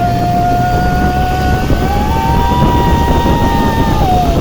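Motorboat engine running hard at speed, a loud steady drone with a whine that climbs in pitch about halfway through, holds, then drops back near the end.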